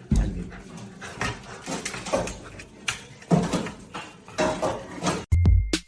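A dog whining and making short cries among irregular knocks and rustles. Electronic music with a heavy bass beat starts just before the end.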